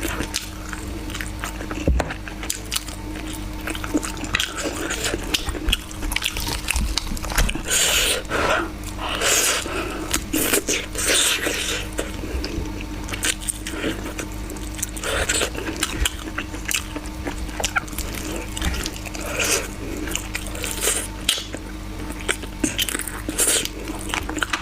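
Close-miked eating of chicken: wet chewing and lip smacking in quick, irregular clicks, with louder bites every few seconds.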